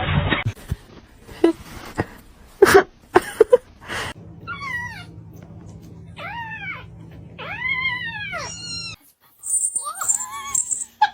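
A cat meowing: three long meows, each rising and then falling in pitch, after a few knocks and clicks in the first seconds. Another meow comes near the end.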